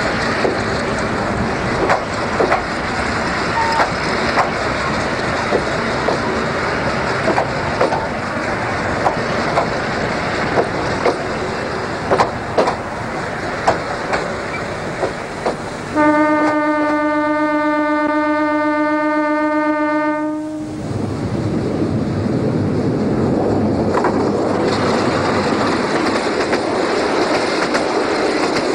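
Train running on the track, with irregular clacks of the wheels over the rail joints. About two-thirds of the way through, the train horn sounds one long, steady single-note blast of nearly five seconds that cuts off sharply, and the running rumble carries on after it.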